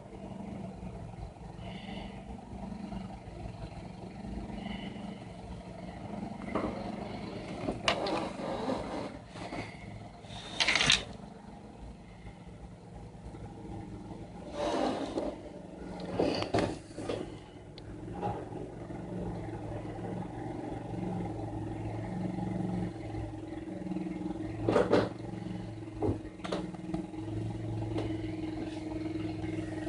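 An engine running, its low hum shifting in pitch, with several short loud bursts of rushing noise.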